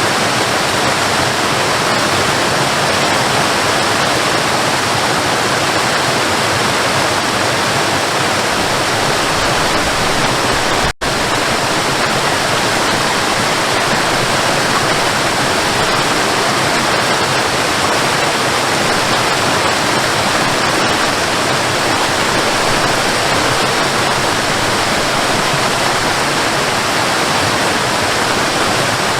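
Waterfall: a steady, loud rush of falling water. It breaks off for an instant about eleven seconds in, then carries on unchanged.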